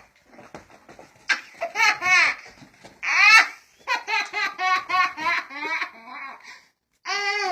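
One-year-old boy laughing hysterically: a few bursts of giggles, a loud high squeal about three seconds in, then a long run of quick, repeated belly laughs, with another burst near the end.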